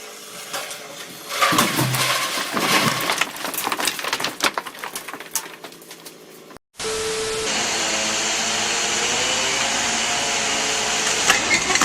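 A rapid run of sharp cracks and snaps. After a brief break, a steady small-engine drone with a slightly wavering pitch, typical of a chainsaw running.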